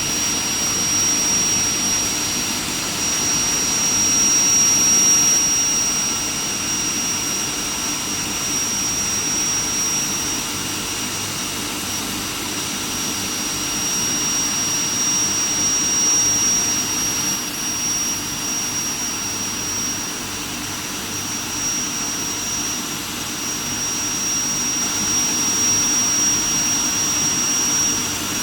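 Steel plate quenching furnace line running: a steady rushing machine noise with a constant high-pitched whine over it.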